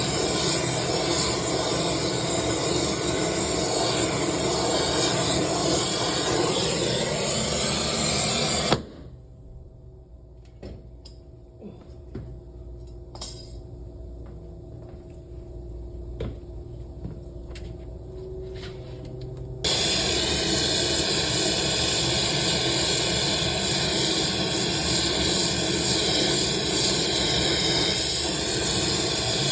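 Loud steady hiss of gas escaping at a multi-service valve. It cuts off abruptly about a third of the way in, leaving a quiet stretch with a few faint clicks, then starts again just as abruptly and runs on steadily.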